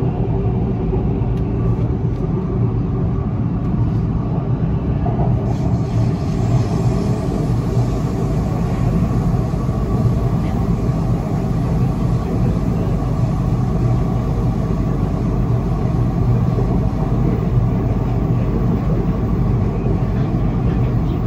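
Interior running noise of a Siemens Inspiro metro train travelling along an elevated track: a steady low rumble that holds at one level throughout.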